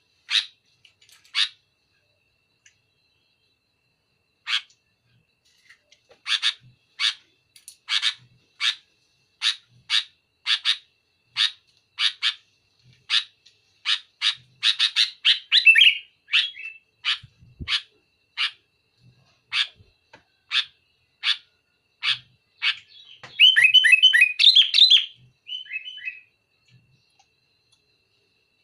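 Sooty-headed bulbul (kutilang) singing: a long run of short, sharp, loud notes at about three every two seconds, then a rapid burst of chattering notes near the end.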